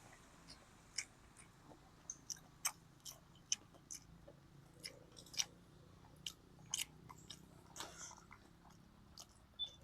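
A person eating close to the microphone: biting and chewing food, heard as irregular short sharp clicks.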